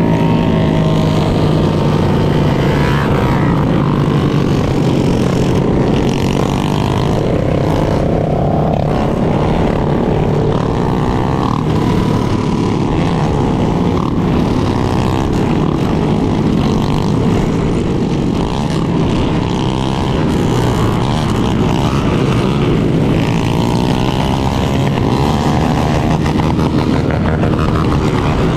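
Several motorcycle engines running together during a group ride, their pitches drifting up and down as the riders change speed, over a steady low rush of wind on the microphone.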